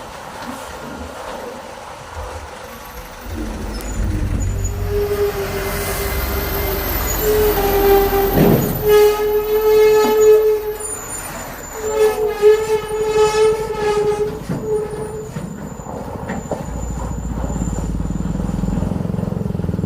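Heavy truck engine rumbling under a loud air horn held in long blasts, strongest in two stretches about nine and twelve seconds in. A short falling sweep sounds just before the first loud blast.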